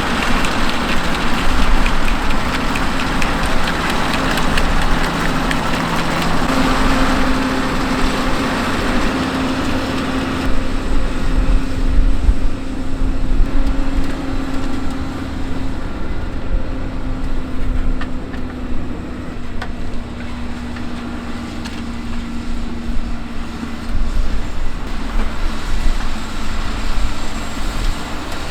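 Fendt 939 Vario tractor's diesel engine running steadily under load while ploughing, with a droning tone that drifts slowly lower in pitch over the middle of the stretch.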